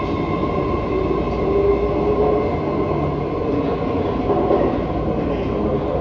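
BART Fleet of the Future electric train pulling away from an underground platform: a steady, even rumble with a few high tones held level over it.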